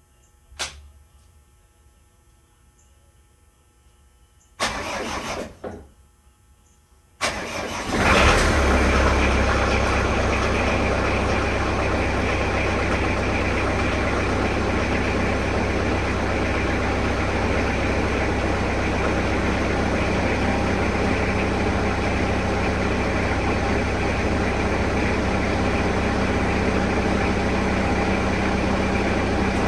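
1999 Bobcat 763 skid steer's diesel engine being started: a click, a short crank that does not catch about five seconds in, then a second crank a couple of seconds later that catches. The engine then settles into a steady idle.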